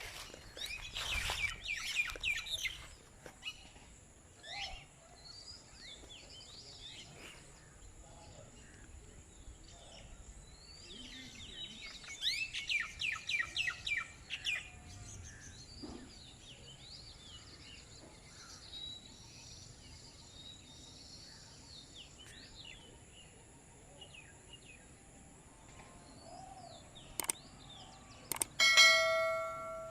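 Wild birds singing and calling: two bursts of rapid, repeated chattering notes, about a second in and again around twelve seconds in, with scattered short calls between, over a steady high-pitched drone. Near the end comes a short, loud, buzzy tone lasting about a second.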